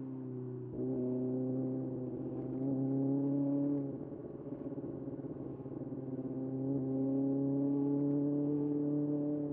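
Kawasaki ZX-6R's 636 cc inline-four running under light throttle, its steady note climbing slowly as the bike gathers speed, with a short break just under a second in. About four seconds in the throttle closes and the note turns rough for a few seconds, then the engine pulls again and climbs.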